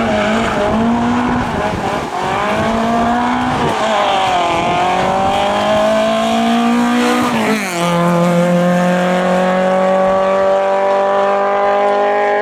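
Rally car engine under hard acceleration, its pitch climbing and then dropping at gear changes about two, four and seven and a half seconds in, then rising slowly in a higher gear.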